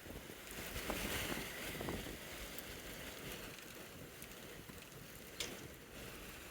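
Gusty wind rushing over the microphone, strongest about a second in and then easing, with one sharp click near the end.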